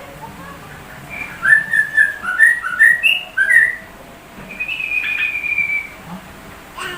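Yellow-vented bulbul (trucukan) singing clear whistled phrases: a quick run of short, upward-slurred notes, then one long, slightly falling whistle about five seconds in. Its song is filled with notes copied from a white-rumped shama.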